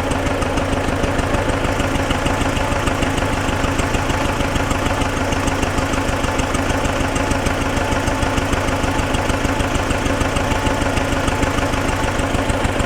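T-40AM tractor's diesel engine idling steadily with a fast, even beat and a knock that the mechanics are trying to trace.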